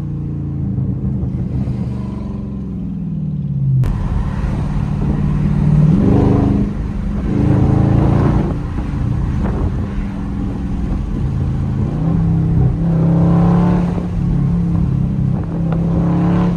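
Dodge Scat Pack Widebody's 392 HEMI V8 with the mid mufflers deleted, revs falling over the first few seconds, then a sudden jump in sound about four seconds in and the revs climbing and dropping several times under acceleration.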